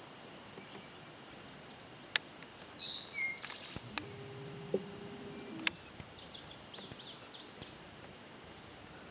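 Steady high-pitched chorus of insects such as crickets, running throughout. A few sharp clicks and some brief chirps cut in around the middle.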